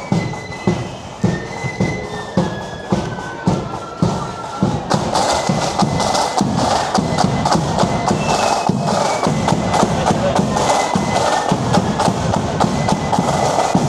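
Marching band playing a tune, a piping melody over a steady drumbeat about twice a second. About five seconds in the band grows fuller and louder, with heavier drumming and crashing cymbals.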